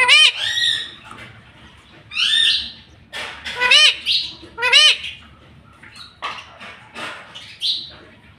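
Pet rose-ringed (ringneck) parakeet calling in short, loud calls that rise and fall in pitch, about seven of them, with quieter chatter in between.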